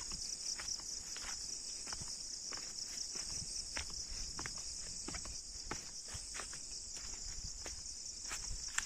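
Steady, rapidly pulsing high-pitched chirring of insects, with irregular light knocks scattered through it.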